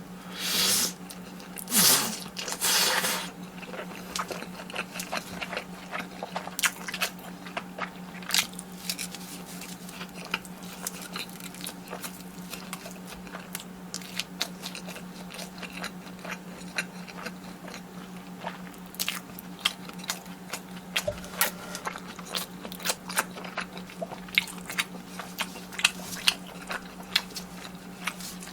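Close-miked eating of Carbo Buldak fire noodles and fried cheese sticks: three loud slurp-like bursts in the first three seconds, then steady chewing with many small crisp crunches and wet squishes.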